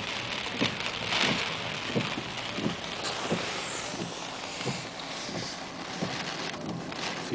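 Heavy rain and wet road noise heard from inside a moving car, with light taps every half second or so.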